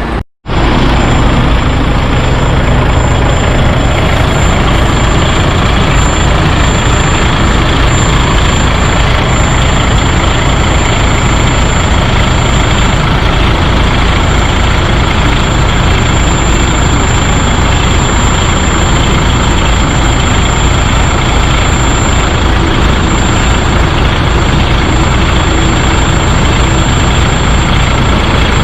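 DAF heavy truck's diesel engine running steadily, a dense low rumble with a thin high whine over it.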